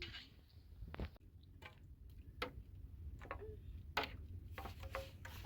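A handful of light, irregular clicks and knocks, spaced unevenly a second or so apart, over a steady low background rumble.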